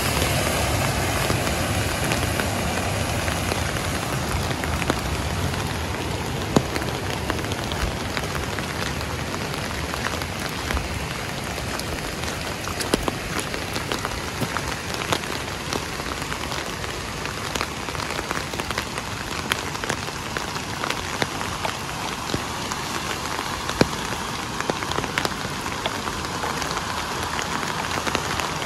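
Steady rain falling, with frequent sharp ticks of individual drops striking close by. A low rumble fades away over the first few seconds.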